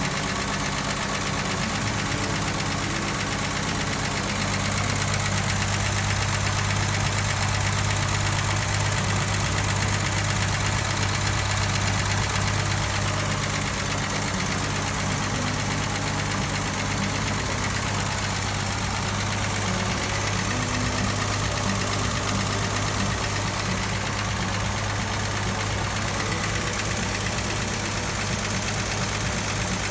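A 1962 Ford Galaxie 500's six-cylinder engine idling steadily.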